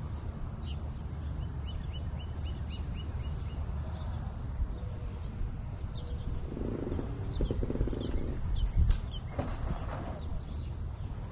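Birds chirping outdoors, with a quick run of about eight high chirps around two seconds in, over a steady low rumble. A brief low buzzing sound comes about seven seconds in.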